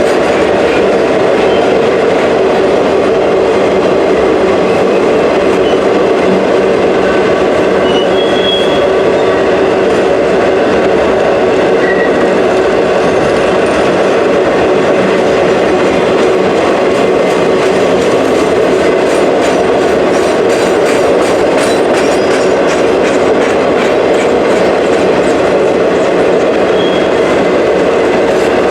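CN freight train cars rolling steadily past, a loud continuous rumble of wheels on rail with clickety-clack, and a few brief faint wheel squeals.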